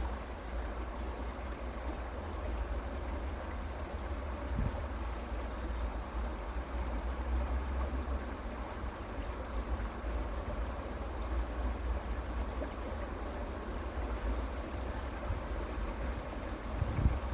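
Creek water flowing steadily, an even rushing with a low rumble underneath that swells a little near the end.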